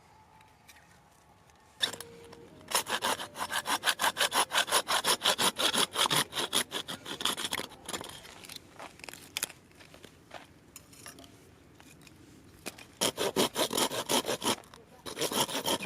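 Hand saw cutting through wood with fast, even back-and-forth strokes, about four a second, in one long run, then two shorter runs near the end after a pause.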